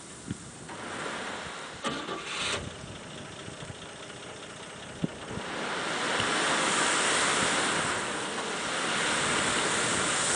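Gravel chips pouring and sliding off a raised dump bed: a steady rushing hiss that grows louder about five and a half seconds in.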